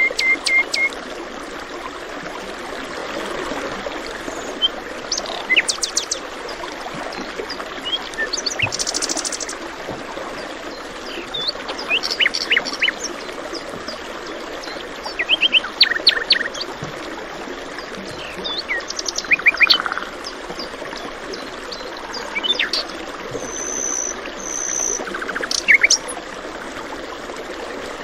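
Songbirds singing short, rapid strings of chirps every few seconds over the steady rush of running water.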